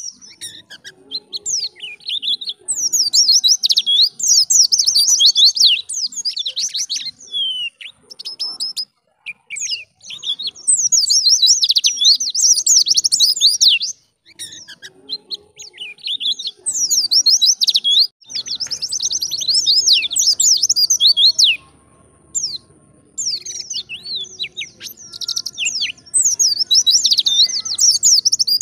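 White-eye (pleci) singing: repeated phrases of rapid, high-pitched twittering, each a few seconds long, with short pauses between them.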